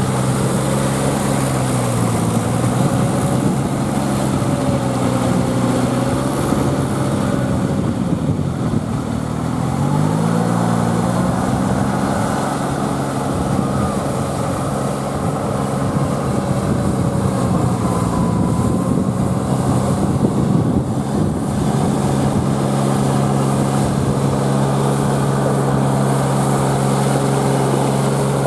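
Kubota L3408 tractor's diesel engine running under load while driving a rotavator through puddled mud. The engine note dips and recovers a few times, near the start, about 8 to 10 seconds in and again around 18 to 21 seconds, as the load changes.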